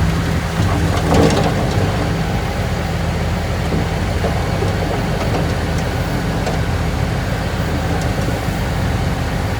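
Heavy construction machine's diesel engine running steadily under load, a low hum, with a short metallic clatter about a second in.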